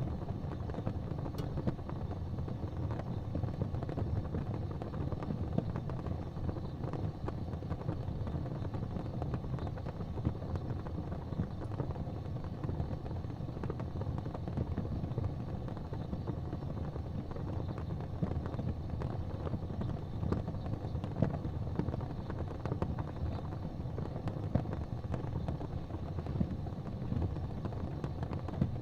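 Wood fire in a fireplace, crackling with frequent small pops over a steady low rumble.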